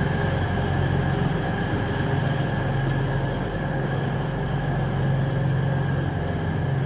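Diesel multiple-unit train idling at a station platform: a steady low engine hum with a faint constant high whine.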